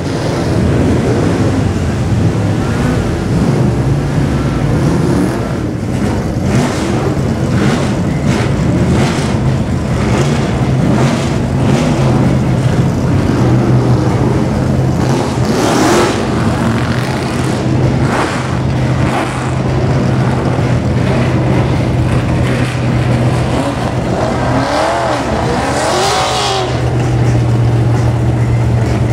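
Dozens of high-performance car engines revving together, the revs rising and falling over a steady low drone, with occasional sharp cracks.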